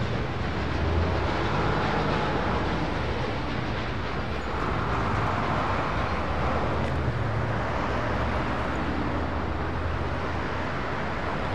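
Freight cars rolling away along the rails: a steady noise of wheels on track with a low hum underneath, swelling slightly midway.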